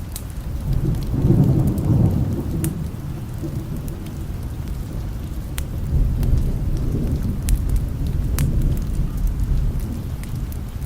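Thunder rumbling low, swelling about a second in and again around six seconds, over steady rain, with scattered sharp crackles from a wood fire.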